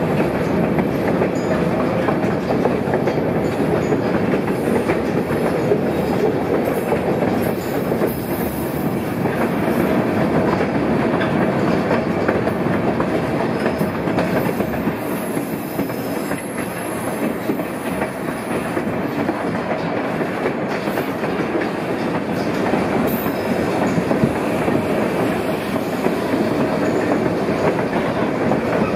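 Narrow-gauge White Pass & Yukon Route passenger train running on the track, heard from aboard a car: a steady rumble and clatter of wheels on rails.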